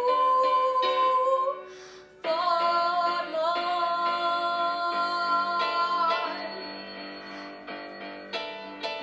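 Closing bars of the song: a girl's voice holds a note over repeated accompaniment notes, which stop about a second and a half in. After a brief gap, a long final note and chord with a slight waver is held for about four seconds, then fades away.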